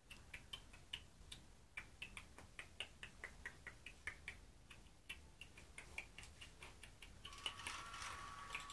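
Quick, faint clicking, about four to five clicks a second and not quite evenly spaced; a faint steady tone joins it about seven seconds in.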